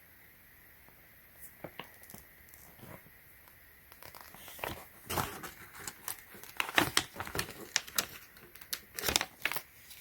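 Paper crinkling and rustling as the pages of an instruction manual are handled and turned: a few scattered crackles at first, then a busier run of crinkles from a little under halfway in.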